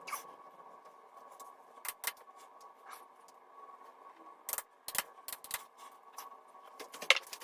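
Scattered sharp clicks and taps of small objects being handled, irregular and a second or so apart, the loudest near the end, over a faint steady hum.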